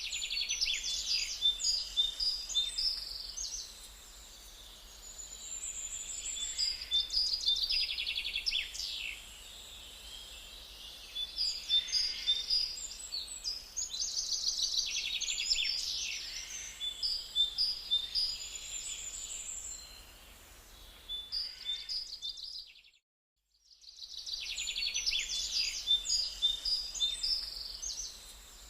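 Small birds chirping in rapid, high-pitched bouts every few seconds, a parent bird feeding its nestlings. The sound cuts out completely for about a second near 23 seconds in.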